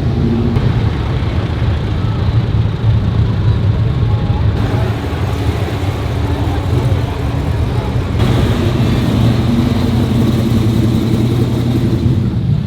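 Car engine running with a steady low rumble. The sound changes abruptly twice, about four and a half and eight seconds in.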